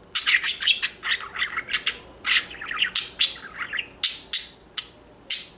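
Pet budgerigar chattering: a fast run of short, high chirps and squawks, a warbling chatter that the owner hears as words.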